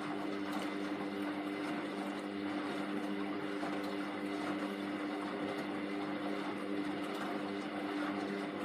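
Hoover Vision Tech washing machine running on a mixed 40° wash, its motor giving a steady, even hum with no pauses.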